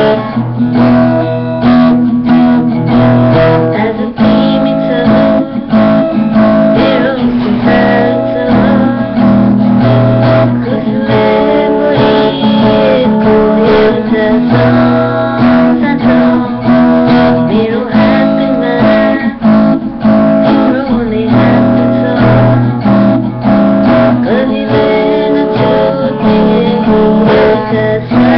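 Acoustic guitar strummed in a steady rhythm, playing sustained chords.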